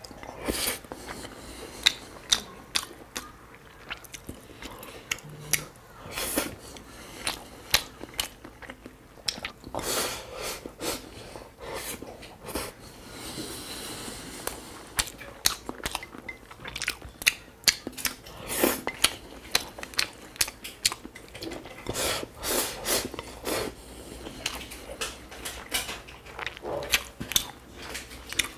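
Close-miked chewing and biting as a woman eats glazed fatty pork slices with purple rice, with many sharp mouth clicks at irregular intervals.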